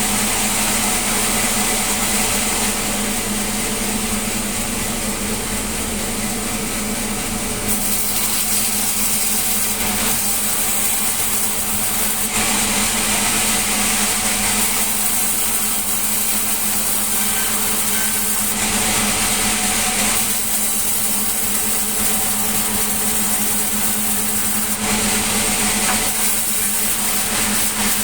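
Sawmill saw running steadily with a constant hum, with stretches of brighter hiss every few seconds as the blade cuts through wood.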